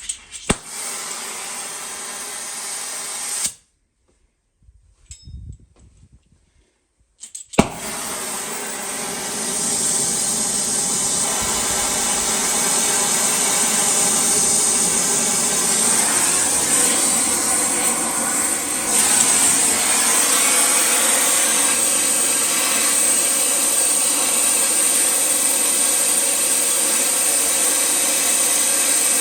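Electric power tool running steadily with a whirring hum. It drops out for about four seconds near the start, then runs on continuously.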